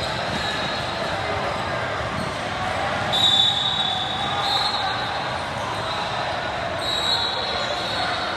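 Basketball game in a gym: a ball bouncing on the court under a background of voices from players and spectators. High, steady squeals lasting about a second each come up partway through and again near the end.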